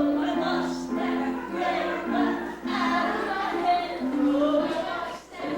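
A group of voices singing a song together, holding long notes; the singing stops near the end.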